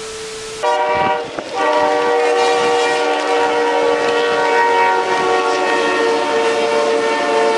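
Train horn sounding one long, steady chord of several tones, starting about half a second in.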